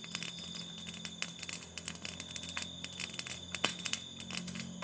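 Small clicks and crackles of a person eating a cake by hand, chewing and handling the food, over a steady high-pitched tone in the background.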